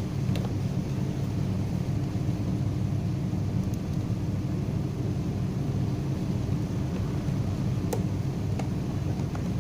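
Electric motor of a twin-tub washing machine running with a steady low hum, a few light clicks near the start and near the end.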